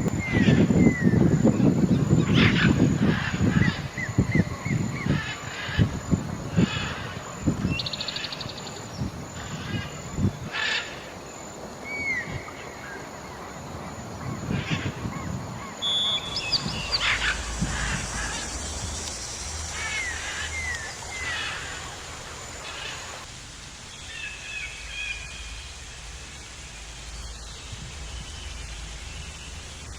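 Birds calling outdoors: short high chirps that drop in pitch, some in quick runs of two or three, over a faint background hiss. A louder low rumbling noise fills the first few seconds and then fades.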